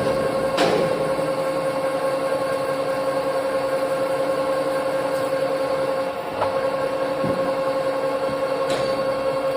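Metal lathe running with a steady hum, with a few faint clicks along the way.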